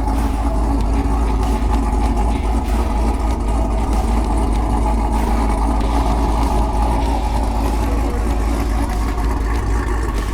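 A vehicle engine idling steadily, with a constant low rumble.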